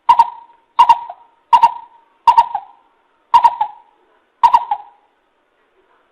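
Coucal (bìm bịp) calling: a series of six hooting notes, about one every three-quarters of a second, the gaps growing longer toward the end.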